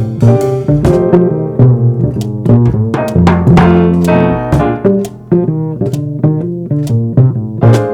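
Live jazz trio playing on keyboard, bass and drum kit, with the bass notes and drum strikes prominent.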